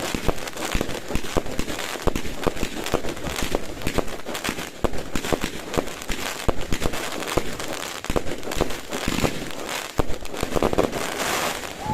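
Fireworks going off: a continuous, irregular crackle of many sharp pops and bangs.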